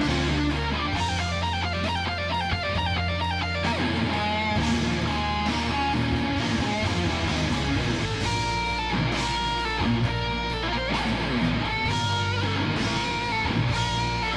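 Live rock band music led by an electric guitar solo, over bass and drums. Fast runs of notes in the first few seconds give way to longer held, bending notes.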